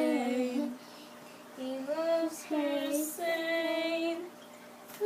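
A child singing a simple tune in a few held phrases, with short pauses between them.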